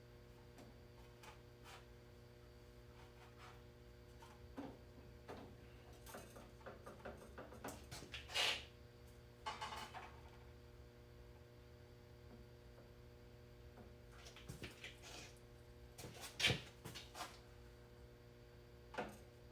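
Scattered clicks, taps and brief scraping as tools and parts are handled, the loudest two about a third and four-fifths of the way through, over a steady low electrical hum.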